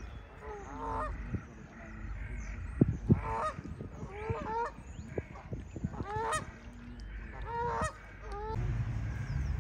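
Canada geese honking: about five separate honks spaced a second or so apart. Two sharp taps about three seconds in.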